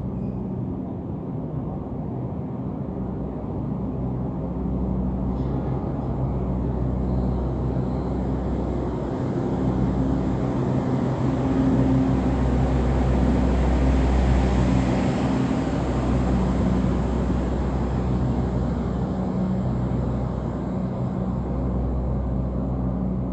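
Passenger train pulling out of a station: a steady low engine hum and rail noise that build to their loudest about two-thirds of the way through, then ease a little.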